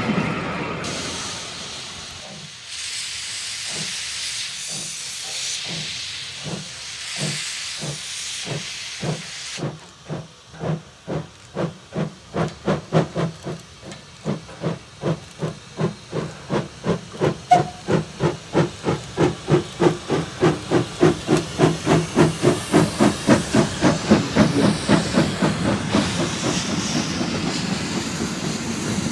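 Steam locomotive starting away: a loud hiss of steam for the first ten seconds or so, then exhaust chuffs that begin slowly and speed up steadily, growing louder, to about three a second near the end.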